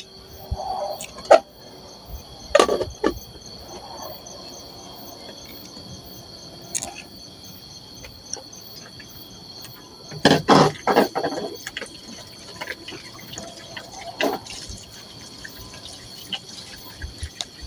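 Crickets chirping steadily at night, with scattered knocks and clatters of a spoon and pot as pasta goes into soup on a wood-burning stove, the loudest run of clatters about ten seconds in.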